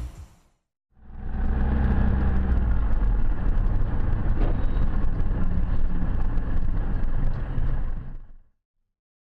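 A car's engine and road noise running steadily while driving. It fades in about a second in and fades out near the end.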